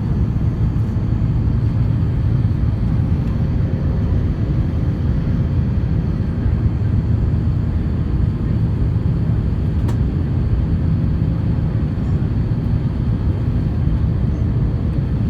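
Steady low rumble of an Airbus A350-900 heard inside the passenger cabin: engine and airflow noise in flight, with a faint steady hum in it and one small click about ten seconds in.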